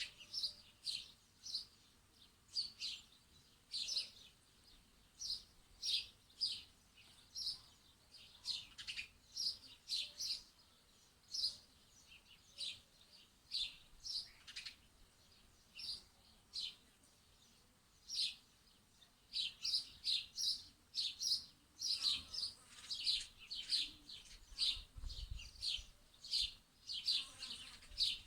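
Small birds chirping: short, high chirps repeated about one or two a second, coming thicker and faster in the last third.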